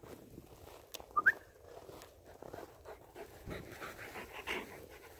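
A dog panting, with a short high squeak about a second in.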